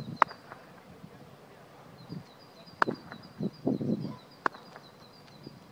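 A small songbird singing a quick, repeated high two-note chirp, with a few sharp clacks (the loudest just after the start and about three seconds in) and a short stretch of muffled distant voices.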